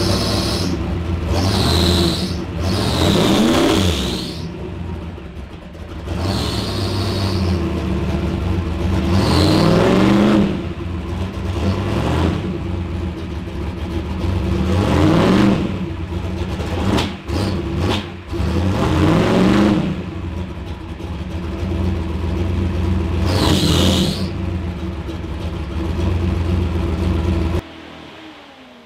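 Turbocharged drag-car engine idling and revved hard in repeated blips, about six times, with a hiss high up on several of the revs, then shut off suddenly near the end. The turbo-staging limiter is being tested and is not working, because its solid-state relay has fried.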